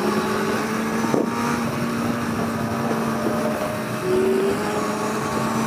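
Motorcycle engine running at a steady pace under wind noise on the rider's microphone.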